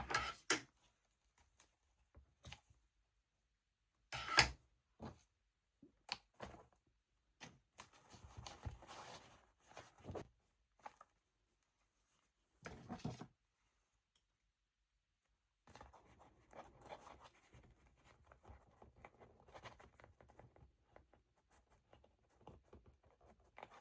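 Intermittent rustling and scraping as the paper journal and ribbon are handled. There are louder rustles about four and thirteen seconds in, and faint continuous rustling over the last third.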